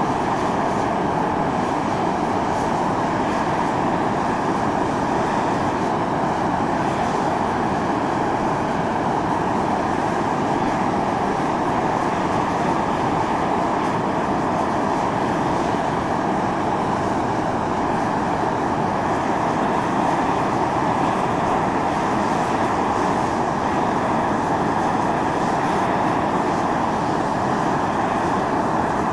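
Volcanic fumarole at Mt. Iō (Atosanupuri) jetting steam and gas in a steady, loud hiss, even and unbroken throughout.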